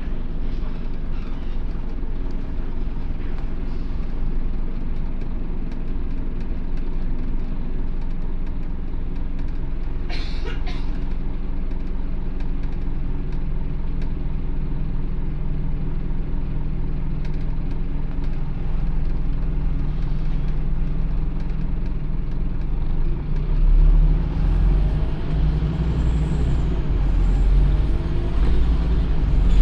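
Scania OmniCity N230UD double-decker bus's five-cylinder diesel engine running steadily, with a short hiss of air about ten seconds in. From about two-thirds of the way through the engine note grows louder and rises as the bus pulls harder.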